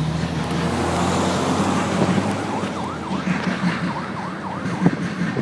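Emergency vehicle siren in a fast up-and-down yelp, starting about halfway in, over the steady rumble of a freight train passing.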